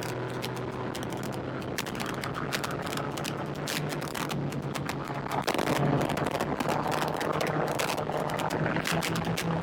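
Yamaha MT-09 motorcycle engine running under way, its pitch rising a little about halfway through, with dense irregular crackling over it.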